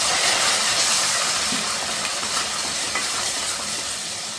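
Onions, spices and added liquid sizzling in hot oil in a kadai as they are stirred with a metal spatula; the hiss starts strong and slowly dies down.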